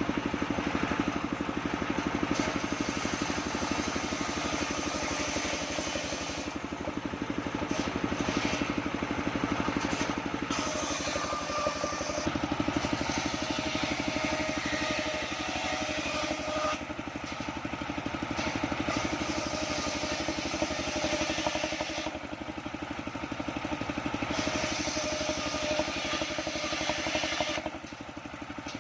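The engine that drives a homemade circular sawmill, running steadily with an even, fast pulse.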